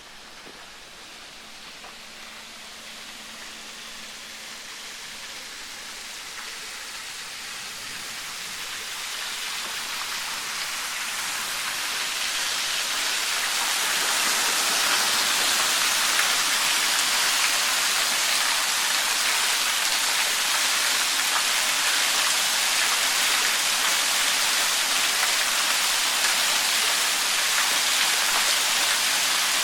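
Rushing water, an even hiss that grows louder over the first half and then holds steady.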